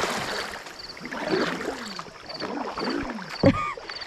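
Water splashing and lapping around a kayak on a river, while insects chirp steadily in the background at about two chirps a second.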